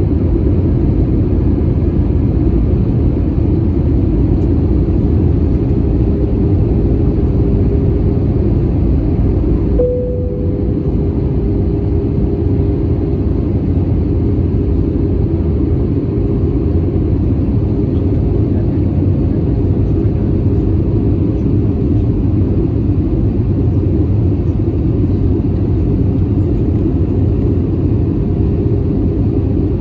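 Airbus A320 airliner cabin noise on approach: the steady rumble of the engines and rushing air heard from inside the cabin. About ten seconds in, a short tone sounds and a steady hum comes in, with a slight dip in level.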